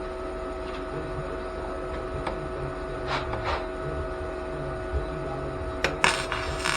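Flux-core wire welder humming steadily, with short crackling bursts of welding arc: two brief ones about three seconds in and a longer one of under a second near the end, as a plug weld is laid on thin car body sheet metal.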